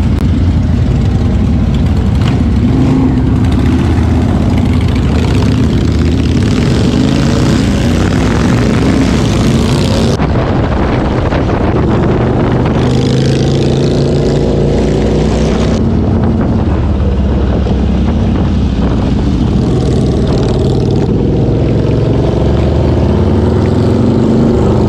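Motorcycle engine running under way, its pitch rising and falling with the throttle, with wind noise rushing over the microphone that comes and goes.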